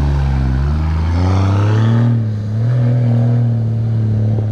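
Toyota 80 Series LandCruiser engine running as the truck pulls away on a dirt track. It revs up about a second in, eases off around two seconds in, then runs steadily.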